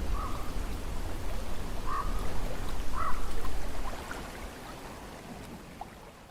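Low rumble of ocean breeze and surf with three short animal calls over it. The rumble drops away about two-thirds of the way through and fades out.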